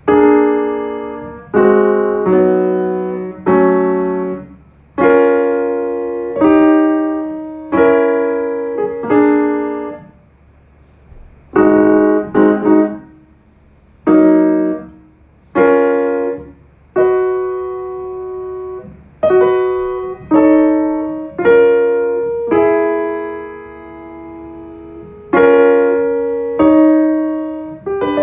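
Piano chords played slowly and unevenly by a beginner, each chord struck and left to ring and fade, about one a second, with a short break about ten seconds in.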